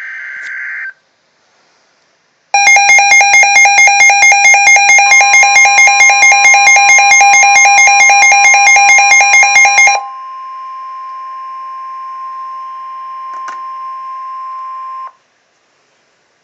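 Emergency Alert System attention signal: a short tone right at the start, then a loud, rapidly pulsing two-tone alarm at about four beats a second, which changes about ten seconds in to a quieter steady tone that cuts off near the end.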